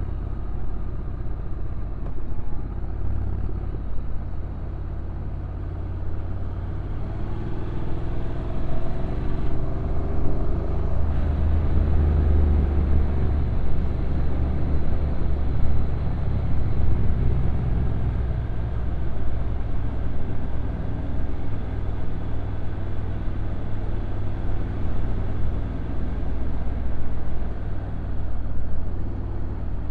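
Honda NC750X DCT motorcycle's parallel-twin engine running on a downhill ride, heard on board under a heavy low rumble of wind and road noise. The engine note glides up and down about a third of the way in.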